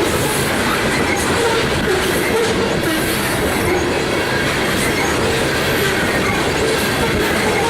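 Coal gondolas of a BNSF unit coal train rolling steadily past, with wheel-and-rail rumble and a faint wavering squeal from the wheels.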